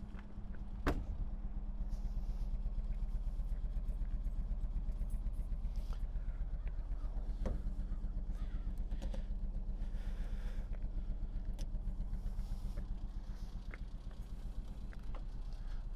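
A classic Mini pickup's 998 cc A-series four-cylinder engine idling steadily, heard from inside the cab. A couple of sharp knocks stand out, one about a second in and another near the middle, along with some light clatter.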